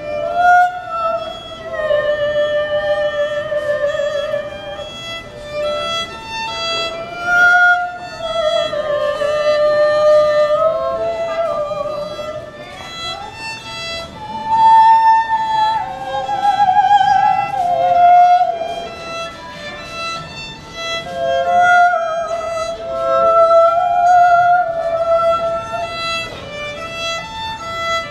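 Solo violin playing a slow melody of long, held notes with wide vibrato, over short repeated notes at fixed pitches.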